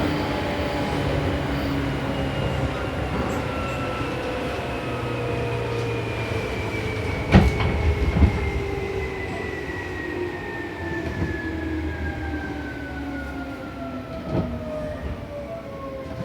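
Seibu New 2000 series electric train's motor and inverter whine, several tones falling steadily in pitch as the train brakes to a stop at a station, over running rumble. A few sharp clacks from the wheels and rails come about halfway through and again near the end.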